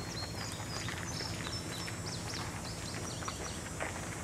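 Songbirds chirping: many short high chirps and whistles in quick succession over a steady low hum.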